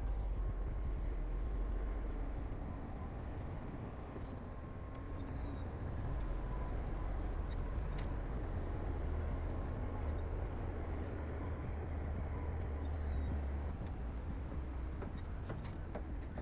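Heavy earthmoving machinery's diesel engine running steadily with a low rumble, dipping slightly in level a few seconds in, with a few faint clicks near the end.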